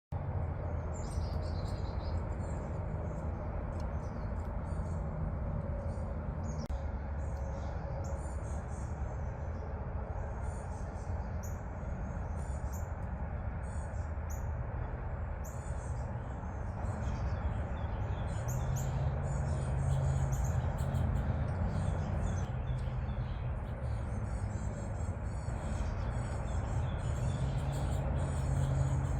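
Several wild birds chirping and calling, short high notes coming thick and fast, busier in the second half. Under them a steady low rumble runs throughout and is the loudest part.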